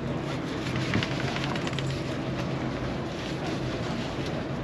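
Small fishing boat's engine running steadily underway, with wind on the microphone and short splashes of water against the hull.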